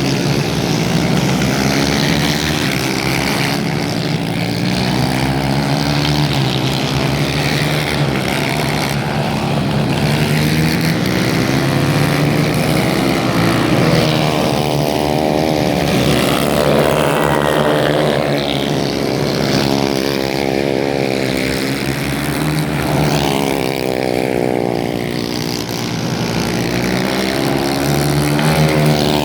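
Racing kart engines running hard, several at once, their pitch rising and falling over and over as they rev up and ease off.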